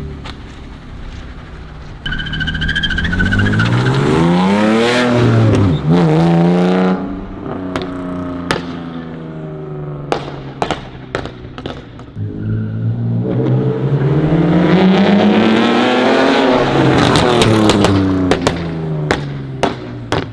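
BMW E46 330i's M54 inline-six, straight-piped through catless headers and a muffler delete, revs up and back down twice. As the revs drop it crackles and pops on the overrun, the pops and bangs programmed into its tune.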